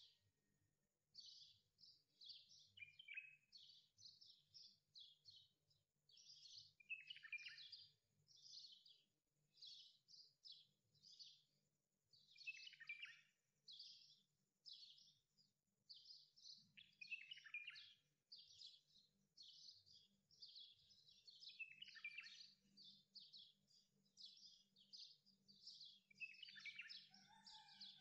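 Faint songbird chirping and twittering: short rapid phrases repeating every second or two, several ending in falling notes, over a faint low steady hum.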